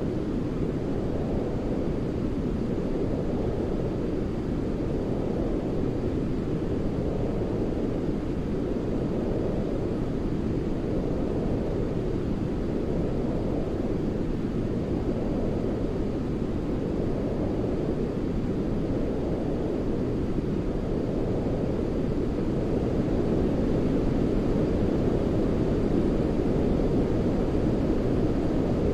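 Steady white noise weighted toward the low end, a deep, even hiss like brown noise, gently swelling and easing every few seconds, a little louder near the end.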